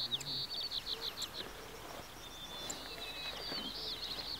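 A songbird singing: quick trills of short, falling, high notes, about eight a second, heard in two bouts, one at the start and one near the end.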